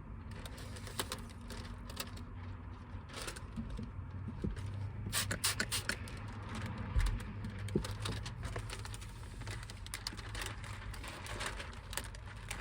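Scattered light taps, clicks and scrapes of window tint film being handled and worked against the glass, clustered around the middle and near the end, over a low steady hum.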